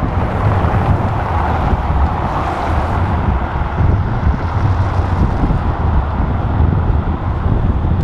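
Wind buffeting the microphone of a camera carried on a moving bicycle: a steady low rumble with a hiss above it.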